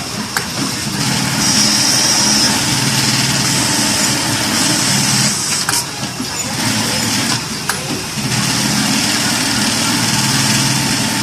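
V-2210ATB-NY automatic bird eye (eyelet buttonhole) sewing machine running through its cycles: a steady mechanical hum, with a higher hiss that comes and goes several times and two sharp clicks past the middle.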